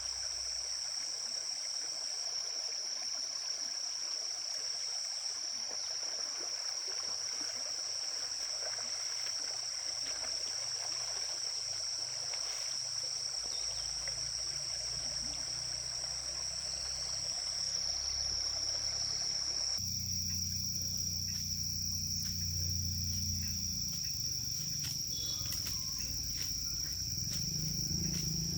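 Insects trilling in one continuous, steady high-pitched note over a faint background haze. About two-thirds of the way through, a low rumble comes in abruptly under the trill.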